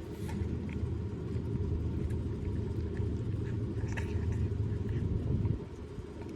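A cat chewing on a pork rib close to the microphone, with a continuous low rumble and scattered faint crunching clicks. The rumble drops away about five and a half seconds in.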